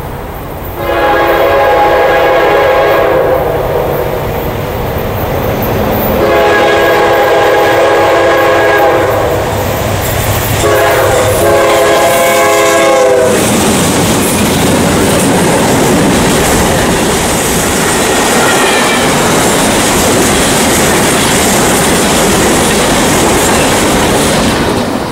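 A CSX diesel freight locomotive sounds its multi-note air horn in three long blasts as it approaches, the last ending about 13 seconds in as it passes. After that the train rolls by close at hand, its wheels rumbling and clattering on the rails under the freight cars.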